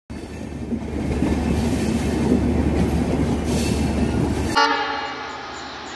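Passenger train running past with a heavy rumble, cutting off suddenly about four and a half seconds in; a quieter, fading tone with several pitches follows.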